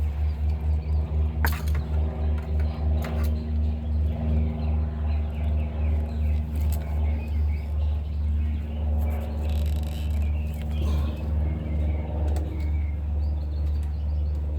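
2008 GMC Yukon's V8 idling with a steady low rumble that pulses about three times a second, evening out in the later part; the truck has a known misfire on cylinder 8.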